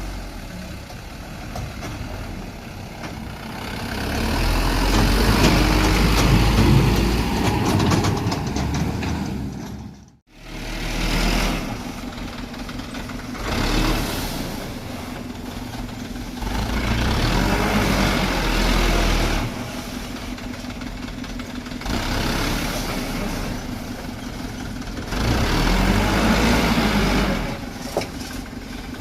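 Dump truck engine running under load, swelling louder in several long surges as it pulls and easing back in between. The sound breaks off briefly about a third of the way through.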